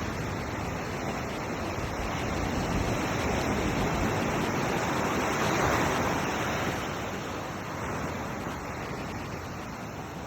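Ocean surf washing onto a beach, a steady rush of waves that swells to its loudest about halfway through as a wave breaks, then eases.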